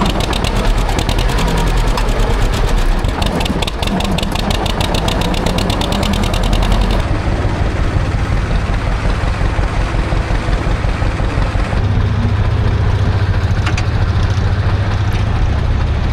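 Tractor engine running steadily, with a fast, even popping through the first half; the sound changes abruptly twice, the last part settling into a steady low hum.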